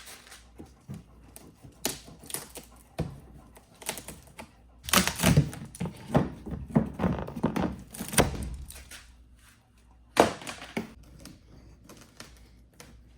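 Irregular knocks, taps and clunks of things being handled, thickest about five to eight seconds in, with one sharp knock about ten seconds in.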